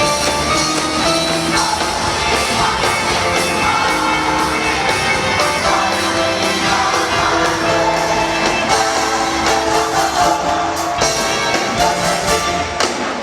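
Large gospel choir singing with a live band, held chords over a steady drum beat.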